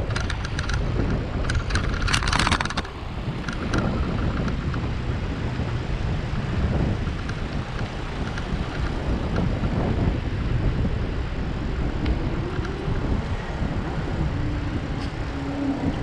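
Wind buffeting the microphone of a GoPro on a moving bicycle, over a low rumble from the ride, with a quick run of rattling clicks about two seconds in. A low steady hum comes in near the end.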